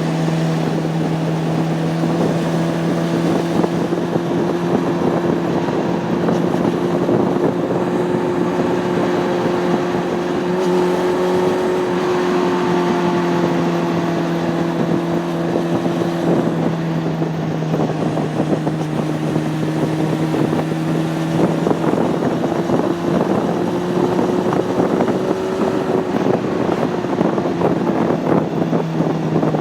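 Honda CB600F Hornet's inline-four engine running at steady road speed. Its pitch drifts gently up and down with small throttle changes, with wind rush on the microphone.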